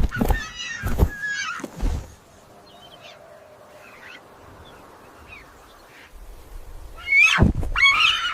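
Animal cries: shrill squawking calls mixed with heavy low thumps, then a quieter stretch with a few faint calls, and another loud burst of squawks and thumps near the end.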